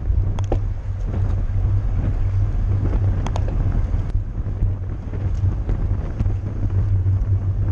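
Wind buffeting the microphone of a camera riding along in a bicycle race: a steady low rumble, with a few sharp clicks and ticks over it.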